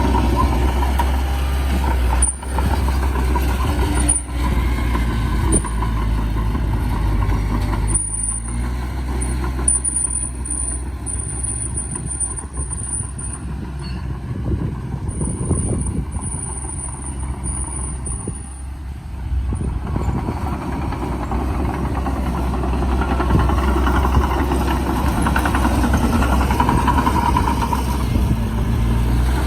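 Heavy diesel earthmoving machinery at work, a bulldozer with trucks: a steady, deep engine drone. A thin high whine comes and goes in the middle.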